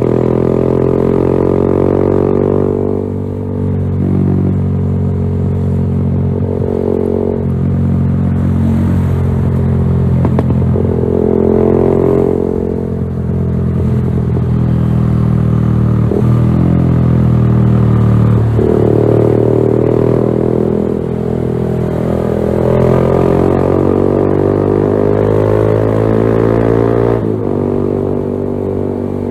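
Yamaha XSR 155's single-cylinder engine through a LeoVince GP Corsa Evo aftermarket exhaust, its revs climbing steadily and then dropping back several times, as when accelerating and easing off.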